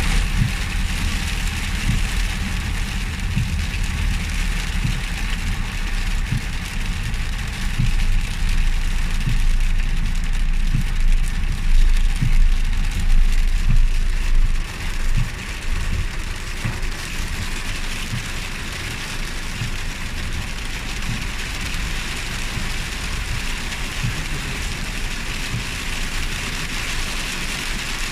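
Rain and hail falling: a steady hiss of rain on surfaces, with a low rumble and many short low thumps throughout.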